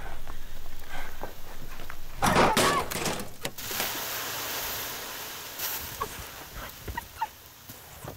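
A loud thunk as the broken-down car's bonnet is opened, then a steady hiss as white smoke pours out of the engine bay, fading into a few small clicks near the end.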